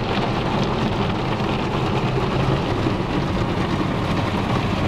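Automatic car wash water jets and washing gear drumming on a car's roof and windows, heard from inside the cabin: a steady rushing noise with a low rumble.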